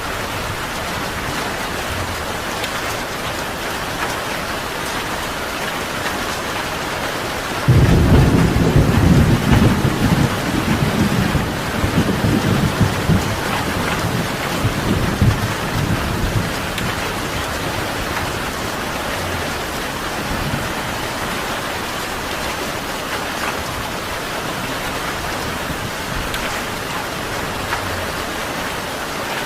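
Steady rain falling, with a sudden low rumble of thunder breaking in about eight seconds in that rolls on for about nine seconds before fading back under the rain.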